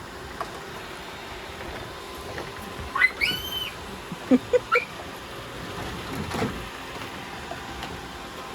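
Robot vacuums running steadily as they sweep rice off a deck. About three seconds in, a short rising tone sounds, and just after four seconds there are three quick beeps, the kind of alert the robots keep giving off.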